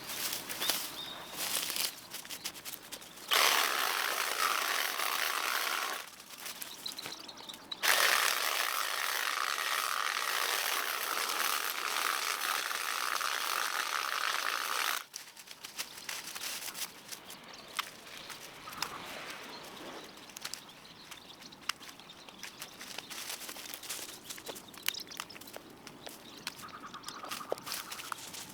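Power hedge trimmer cutting a hedge in two runs, a short one a few seconds in and a longer one of about seven seconds; between the runs, scattered faint clicks.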